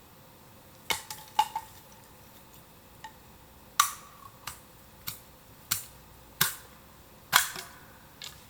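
Bamboo burning in an open fire, crackling with irregular sharp cracks and pops, about a dozen in all. The loudest come a little under four seconds in and again about seven seconds in.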